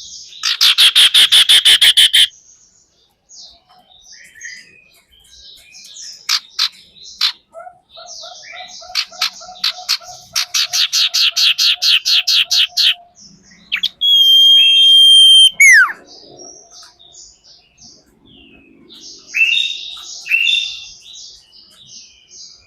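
Common iora calling: fast rattling trills, a long drawn-out whistle that ends in a quick falling glide, and scattered short chirps.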